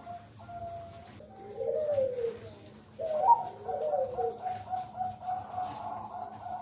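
Zebra dove (perkutut) cooing. A steady run of short notes repeats about three times a second, and two louder phrases fall in pitch near the middle.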